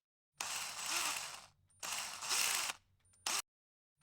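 Edited-in sound effect: two loud, noisy rattling bursts about a second long each, then a short third burst, each starting and stopping abruptly out of dead silence.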